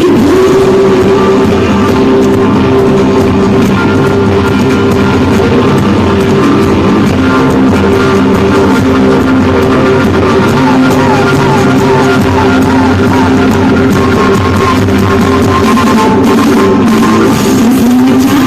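Loud live band music with guitar and drum kit in a rock style.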